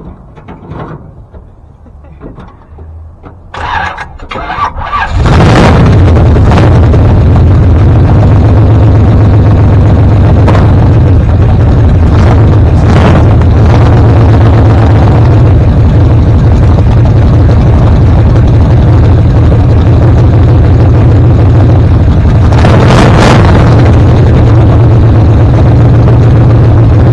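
Classic truck's engine cranking, catching about five seconds in, then running loud and steady with a few brief surges.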